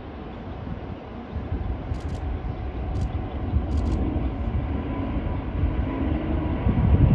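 Aircraft engine rumble growing steadily louder as a plane approaches, with a faint steady whine coming in about five seconds in.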